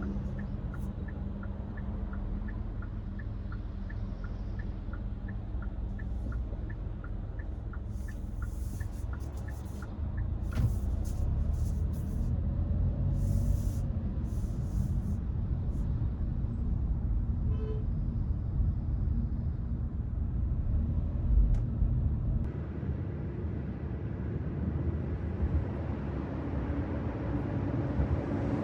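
Hyundai Casper driving, heard from inside the cabin: a steady low road and engine rumble, with the turn-signal indicator ticking evenly until it stops about ten seconds in.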